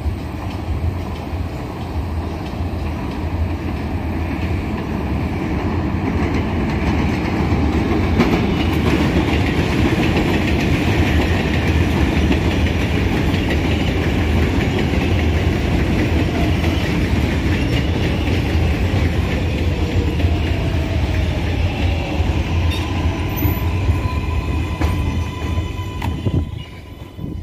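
R188 subway train running into the station on the 7 line: a continuous rumble of wheels on rail that gets louder from about eight seconds in. A faint pitched whine slides up and down in the second half, and the noise drops away sharply near the end.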